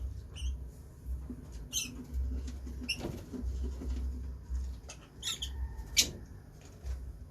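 Lovebirds giving short, high chirps and squeaks, a handful of separate calls one or two seconds apart, the loudest and sharpest about six seconds in.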